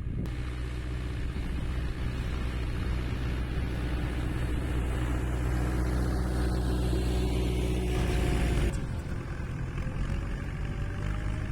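Tractor engine running steadily, with a loud hissing noise on top that cuts off abruptly about nine seconds in.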